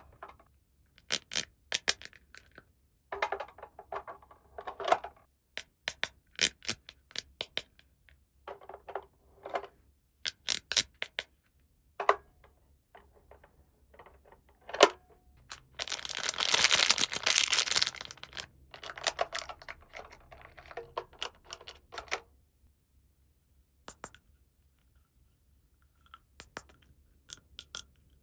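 Small plastic toy parts and packaging being handled, making a run of light clicks and taps with short pauses between them. About halfway through, a dense rustle lasts about two seconds.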